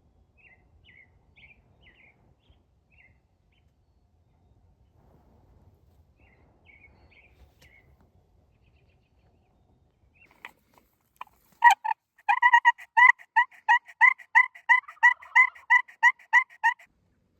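Turkey yelps: a loud, even series of about sixteen notes, roughly three a second, lasting about four and a half seconds in the back half. Faint high chirps come earlier, and a few sharp clicks just before the series.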